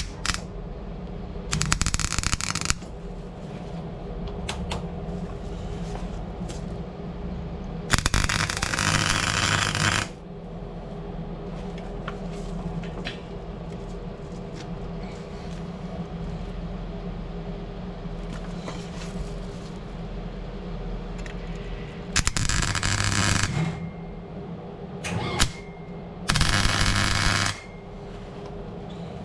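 MIG welder striking short welds, about five noisy bursts of one to two seconds each, made with the shielding gas off and the wire speed set too low.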